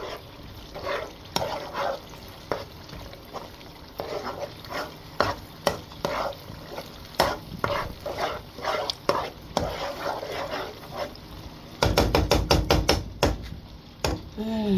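Spoon stirring and scraping tinned tomato frying in a pot, with intermittent scrapes and knocks, turning it so it does not catch on the bottom while the sour taste cooks out. About twelve seconds in comes a quick run of about eight sharp strokes against the pot.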